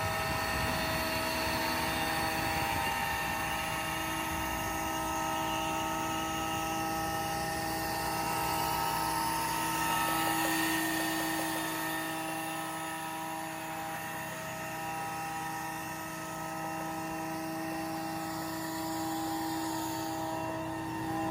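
Vacuum truck running: a steady mechanical drone with several high, even whining tones over it.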